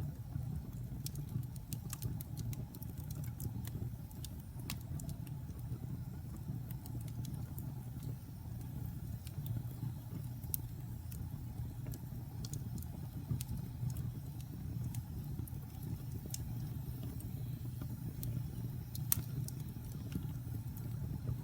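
Wood fire burning in a fireplace: a steady low roar of flames with scattered sharp crackles and pops. One pop about nineteen seconds in is louder than the rest.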